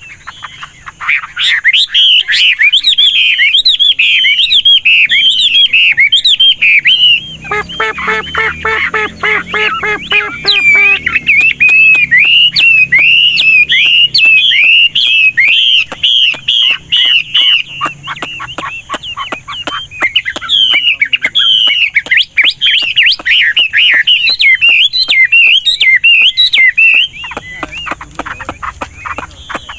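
Old wild-caught Chinese hwamei singing a loud, continuous run of fast, varied whistled phrases, constantly switching notes. About seven seconds in, a lower, rapidly pulsing call joins for a few seconds.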